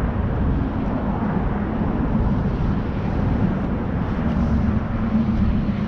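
Steady low rumble of vehicle engines running, with a faint even hum.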